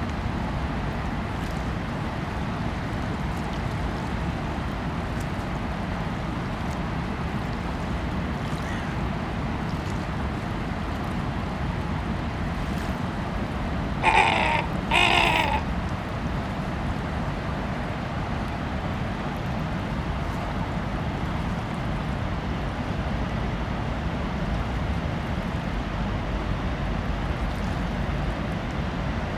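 Steady low outdoor rumble, with two short, harsh bird calls close together about halfway through.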